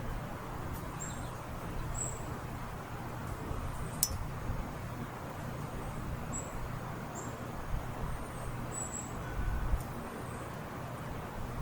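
Small birds chirping: short, high, thin notes every second or so, over a steady low hum and rumble. A single sharp click sounds about four seconds in.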